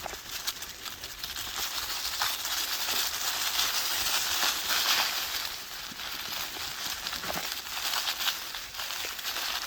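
Dry autumn leaves rustling and crackling, with many small crackles scattered through it and the rustling swelling a few seconds in before easing again.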